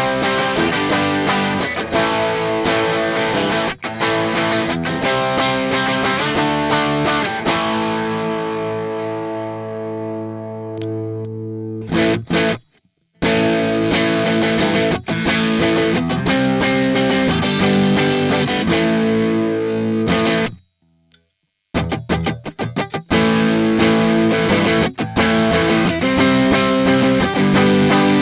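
Vantage 635V semi-acoustic electric guitar being played through an amp: chords and riffs, with one chord left to ring out and fade about a third of the way in. The playing stops briefly twice.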